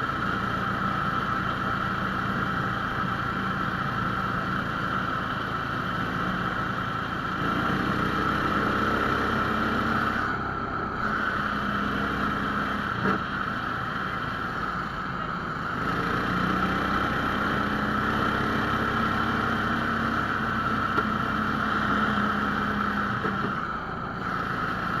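The 17 hp Lifan engine of a Laika-2M motor sled running under way, with a steady high whine on top. The engine picks up about a third of the way in, eases off, picks up again just past the middle and eases near the end.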